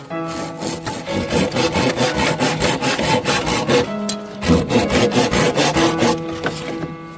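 Rapid rasping strokes of something being sawn or scraped, over background music, with a short break about two-thirds of the way through.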